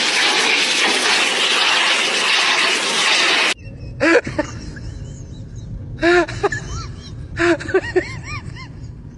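A loud, steady hiss that cuts off suddenly after about three and a half seconds. Then short, high whines that rise and fall, a few at a time, like an animal whimpering.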